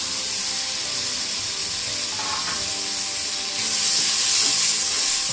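Onion-tomato masala sizzling in hot oil in an aluminium pot, with ground spices just tipped in. It is a steady hiss that swells louder about three and a half seconds in.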